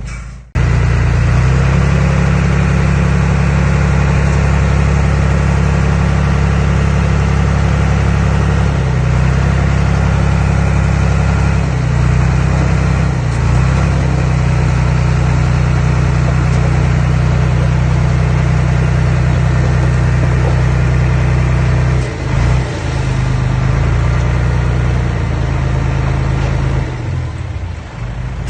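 Diesel engine of an earthmoving machine running steadily, with a low, even drone and a couple of brief dips in level partway through.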